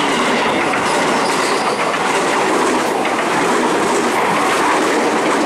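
JR 205 series electric commuter train passing at speed close by: a loud, steady running noise of wheels on the rails and carriages going past.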